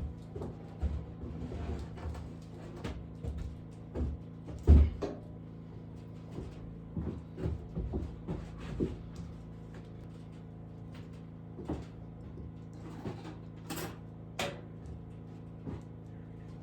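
Scattered knocks, bumps and clicks of things being handled and set down, with one heavy thump about five seconds in, over a steady low hum.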